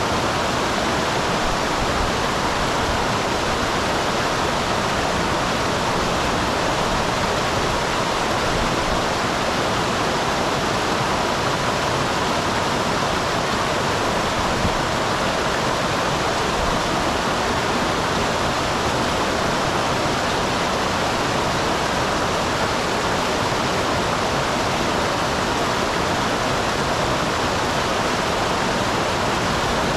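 Small waterfall on a mountain stream: water falling and rushing steadily, an even hiss strongest in the middle range.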